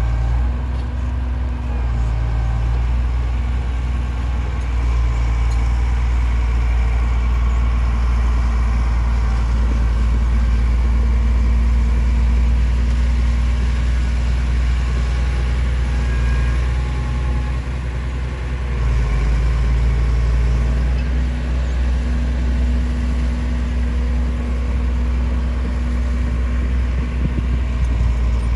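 Heavy diesel engine of earthmoving machinery running steadily with a deep rumble, easing briefly a little past the middle before picking up again.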